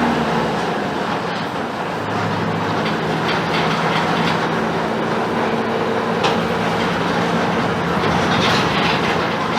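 Mercedes-Benz OF-1721 BlueTec 5 bus under way, its diesel engine running while the body rattles and clicks over the road. The engine note changes pitch a couple of times.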